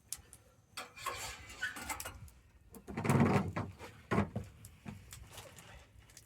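Wood campfire crackling, with scattered sharp pops and a louder burst of rustling and knocks about three seconds in, like burning wood shifting.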